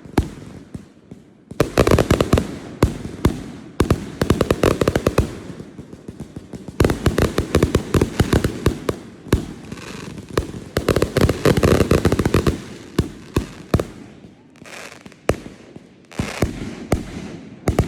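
Fireworks going off: several dense bursts of rapid crackling pops, with single sharp bangs in between.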